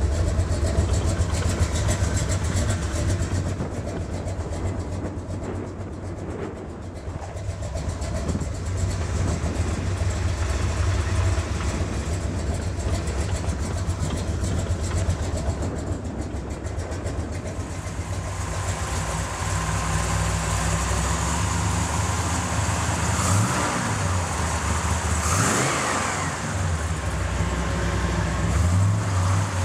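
Chevrolet 454 big-block V8 running at a steady idle, revved briefly twice near the end.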